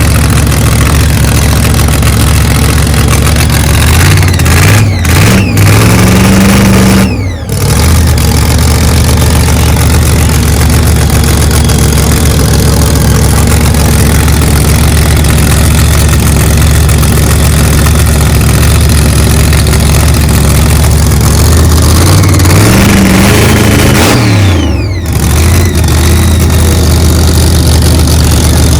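Car engine running loud at a steady idle and revved up twice: each time the pitch climbs for a few seconds and then drops off sharply, once about seven seconds in and again about twenty-five seconds in.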